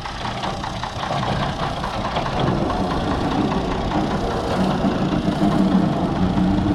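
A Fordson Major tractor's swapped-in six-cylinder Perkins diesel engine running steadily. It grows louder over the first two or three seconds.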